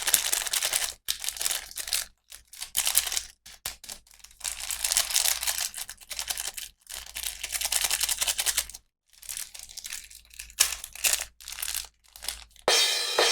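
Plastic packaging crinkling and tearing in irregular bursts, with short pauses, as a toy is unwrapped. Near the end a ringing cymbal-like crash sets in and slowly fades.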